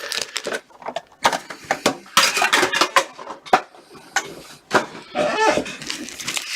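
Trading-card packaging and cards being handled: irregular crinkles, rustles and light clicks as packs are pulled from a tin and opened.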